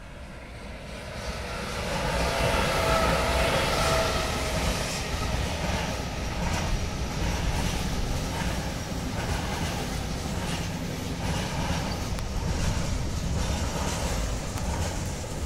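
A freight train hauled by a Siemens Vectron electric locomotive passing, the sound building over the first few seconds with a whine as the locomotive goes by. Then intermodal pocket wagons loaded with semi-trailers roll past with a steady low rumble and repeated wheel clicks.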